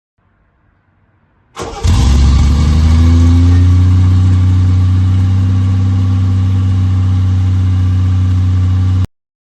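A classic car's engine starts about a second and a half in, its pitch settling slightly, then runs loud and steady until the sound cuts off abruptly near the end.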